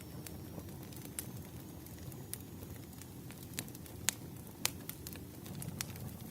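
Wood fire crackling: irregular sharp snaps and pops over a steady low rumble, the two loudest snaps a little after four seconds in.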